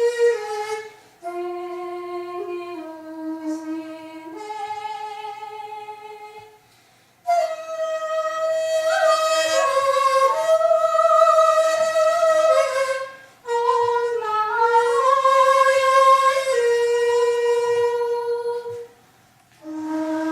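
Daegeum, the Korean large bamboo transverse flute, playing a slow solo melody of long held notes that slide and waver in pitch. The phrases break off briefly about every six seconds.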